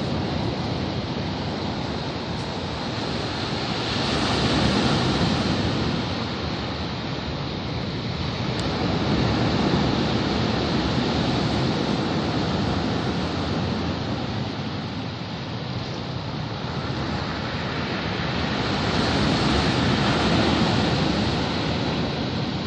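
Sea waves surging and washing ashore, a continuous rushing noise that swells and eases slowly, with three louder surges several seconds apart.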